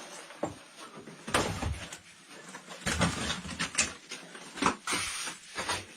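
Caver's body and gear scraping and shuffling against rock while crawling through a tight crack, in irregular bursts with a few heavier knocks.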